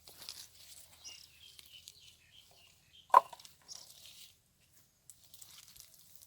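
Rustling and crackling of dry leaves and brush underfoot, with one sharp snap about three seconds in, the loudest sound.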